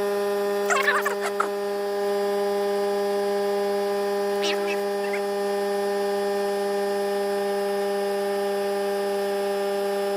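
ARB 12-volt on-board air compressor running with a steady electric hum as it fills the air tank and roll cage toward its 100 psi cut-off. Brief clattering sounds about a second in, and a short one again a few seconds later.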